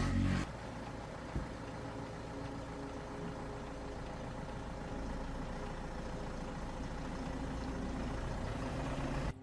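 Old dump truck engine running steadily at idle, a low even rumble, with one short knock about a second and a half in; the sound cuts off suddenly near the end.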